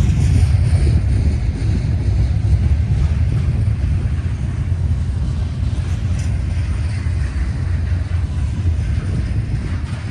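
Double-stack container well cars of a freight train rolling past close by: a steady, loud rumble of steel wheels on the rails.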